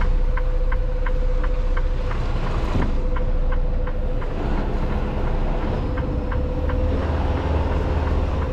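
Semi truck's diesel engine running at low revs while backing, heard from the cab, with a steady hum and a light ticking about twice a second.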